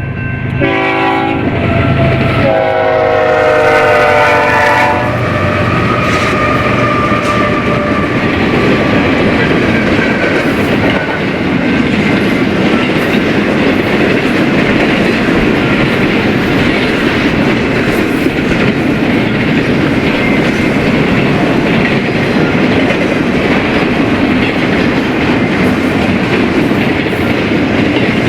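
BNSF freight train locomotive horn sounding a short blast and then a longer one whose chord drops in pitch as the locomotive passes. The train's cars then roll by in a steady rumble with wheel clickety-clack.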